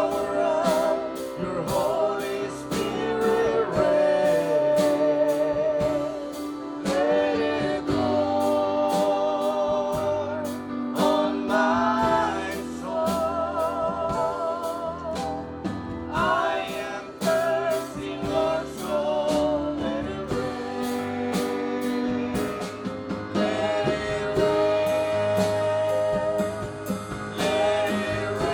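Gospel worship music: a singer holding long, wavering notes over a band with a steady drum beat.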